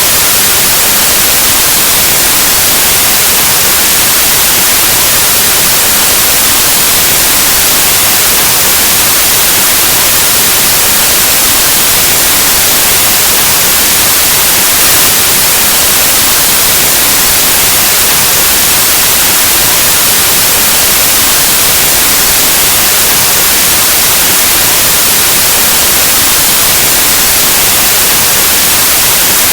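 Steady, loud white noise: an unbroken hiss like analog TV or radio static, with no change at all.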